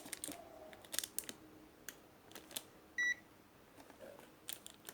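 Digital multimeter giving one short high beep about three seconds in, amid scattered light clicks of test probes tapping on a circuit board.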